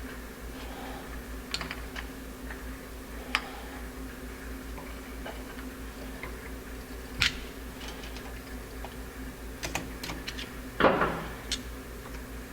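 Scattered light clicks and taps of small metal parts and hand tools on a Motorcraft single-barrel carburetor being reassembled, with a louder clunk about eleven seconds in. A steady low hum runs underneath.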